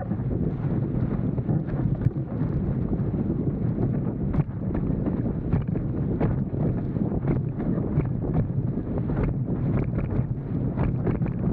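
Wind buffeting a microphone on a windsurf rig moving at speed, over rushing water, with frequent short slaps as the board hits chop.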